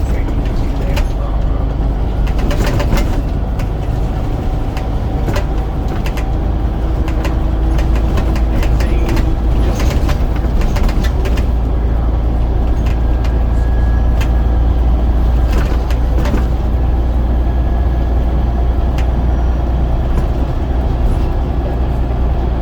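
Scania DC9 9.0-litre diesel engine of a Scania N94UD double-decker bus running steadily while the bus drives, a constant low drone with frequent short rattles and clicks from the bodywork.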